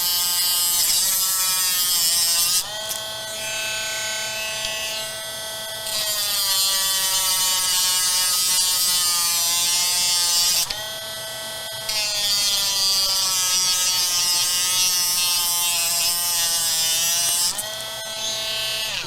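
A small electric motor whining steadily throughout, dropping to a lower, quieter pitch for a few seconds three times: about three seconds in, around eleven seconds, and near the end.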